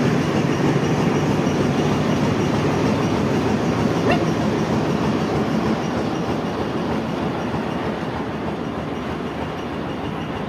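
Steady low rumbling and rattling noise of a moving vehicle, easing slightly after about halfway.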